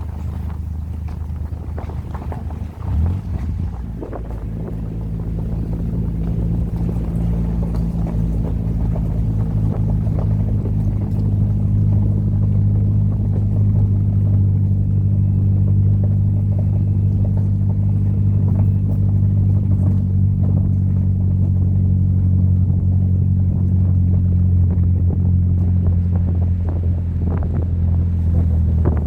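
Audi TT 225 Quattro's 1.8-litre turbocharged four-cylinder engine droning at a steady pitch while the car is driven, with wind and road noise. It grows louder over roughly the first ten seconds, then holds level, with a brief thump early on.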